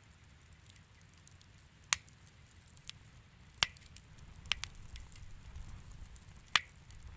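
Wood fire crackling in a fireplace: small ticks and four sharp pops, the loudest near the end, over a low steady rumble.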